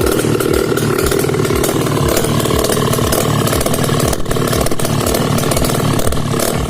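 Velorex 16/350's Jawa 350 cc two-stroke twin engine running steadily on a test run after restoration.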